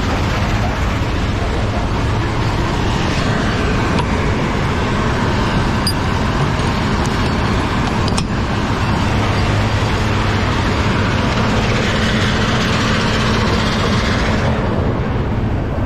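Heavy diesel truck engine running steadily, a low hum under a loud, even rushing noise whose hiss thins out near the end.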